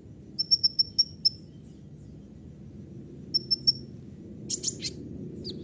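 Kolibri ninja (sunbird) singing a varied masteran song: a quick run of about five sharp, very high chirps about half a second in, three more a little after three seconds, then a rattly burst near five seconds. A steady low hum runs underneath.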